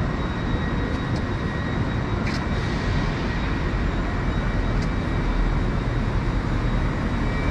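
Steady noise of a station platform beside a standing ScotRail Class 380 electric train, heavy in the low end, with a faint steady high whine and a few light clicks.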